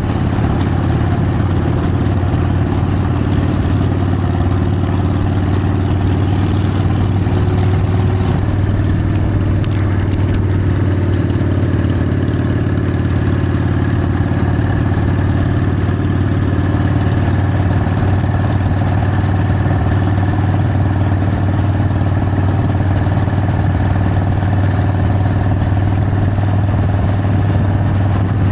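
Harley-Davidson Sportster's V-twin engine running at a steady cruising pace, holding an even pitch with little change in revs.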